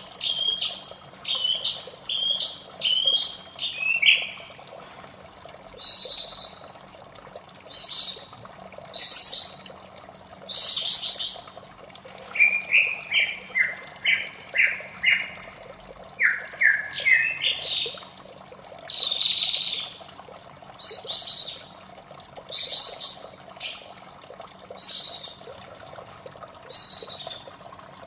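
White-rumped shama singing a varied series of loud whistled phrases, some as quick repeated notes that step down or climb in pitch, over steady running water.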